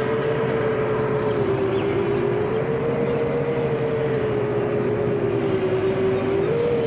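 Five-inch FPV quadcopter's four T-Motor 2207.5 brushless motors with tri-blade propellers whining steadily in cruising flight, the pitch drifting gently up and down and rising briefly near the end, over a steady rush of air noise.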